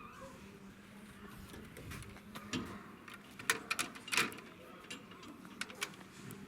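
Scattered clicks and knocks of hands working the controls of an old, non-running tractor, with the loudest few about halfway through.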